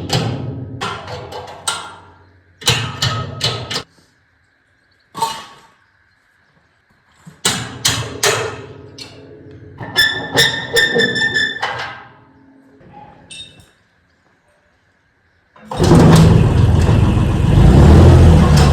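Steel being handled and struck: a series of separate knocks and clanks, some of them ringing, on a steel digger bucket under repair. About sixteen seconds in, a loud continuous rushing noise of metalwork (welding or grinding) starts and keeps going.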